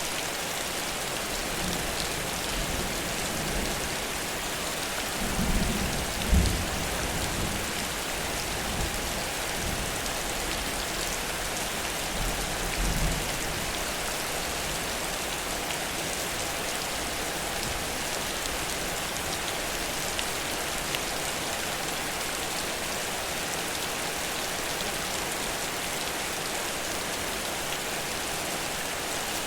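Heavy rain falling steadily, with low rumbles of thunder: the strongest about six seconds in and another around thirteen seconds.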